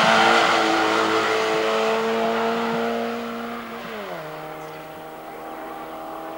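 Racing saloon car engine at high revs on a hillclimb, its note held steady and loud, then dropping sharply in pitch about four seconds in and running on lower and fainter as the car moves away.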